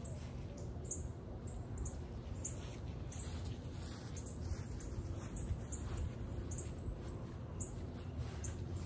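Small birds chirping: short, high chirps that recur every half second to a second, over a steady low background rumble.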